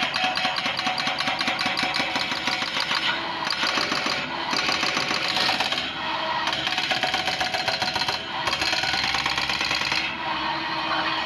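Heavy machinery running with a fast, steady hammering clatter, which breaks off briefly and resumes several times.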